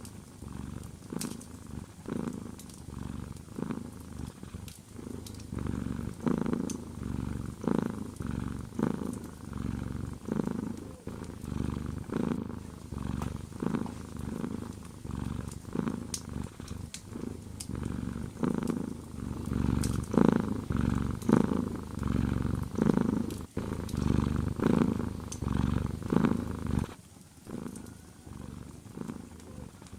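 Domestic cat purring up close, the purr swelling and fading with each breath, about once a second, and dropping away briefly near the end. Light crackles of a wood fire in a fireplace sound through it.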